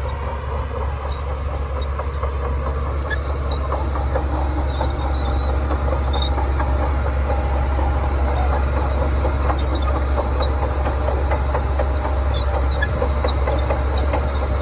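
Shantui DH17C2 bulldozer working: its diesel engine runs with a steady low drone while the steel tracks give off scattered metallic clinks and short squeaks. It grows slightly louder over the first few seconds.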